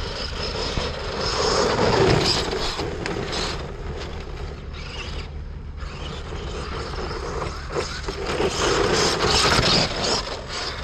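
Arrma Kraton RC monster truck running, its brushless motor and drivetrain whirring with mechanical rattling and noise from the tyres on loose ground. The sound surges about two seconds in and again near the end, with a lull in the middle. The truck is running on bent drive shafts.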